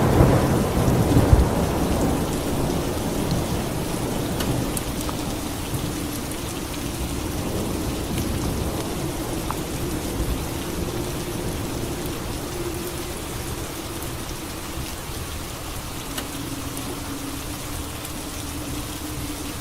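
Steady rain falling, with a thunderclap right at the start that rumbles away over the next couple of seconds.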